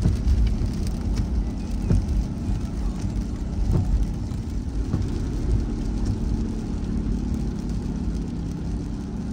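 Steady low rumble of a car driving on a wet road, heard from inside the cabin, with engine and tyre noise and a few faint ticks.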